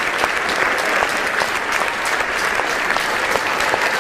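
A large audience applauding with steady, dense clapping.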